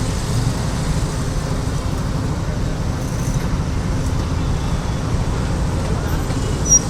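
Steady rumble of road traffic on a busy street, with a short sharp tick near the end.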